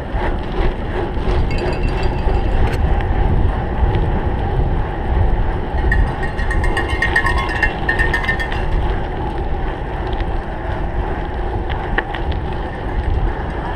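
Cyclocross bike ridden hard over rough ground, with wind buffeting the microphone in a steady low rumble and the frame and chain rattling and clinking. About six seconds in, a rapid ticking with a ringing tone runs for a couple of seconds.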